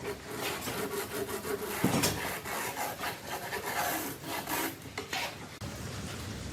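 A hand tool scraping and rasping against wood in quick, irregular strokes. About five and a half seconds in, this gives way to a steady hiss.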